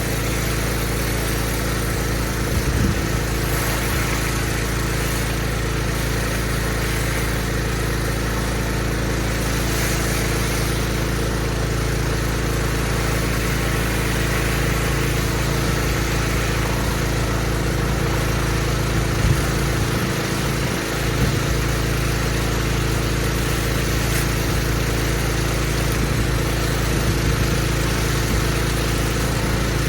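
Pressure washer's engine running steadily under load, with the hiss of the high-pressure water jet on block paving.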